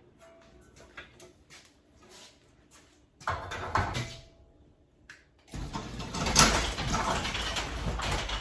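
Light clicks and handling noises, then a short burst of rattling about three seconds in and a longer, louder stretch of rattling from about halfway on. The source is a jammed sectional garage door, its lift cables off the drum spools, being shoved and shifted by hand in its tracks.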